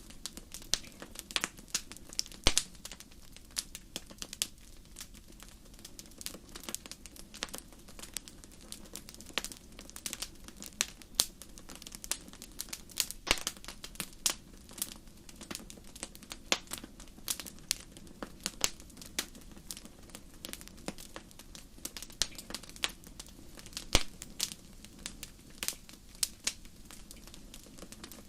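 Wood fire burning in a fireplace: irregular crackles and sharp pops, several a second, with a few much louder pops, over a low steady rush of flame.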